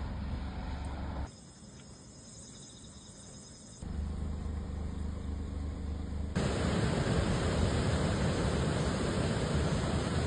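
Steady roar of typhoon wind and rain on the microphone, with no tones in it. It drops suddenly about a second in, comes back near four seconds, and grows louder again about six seconds in.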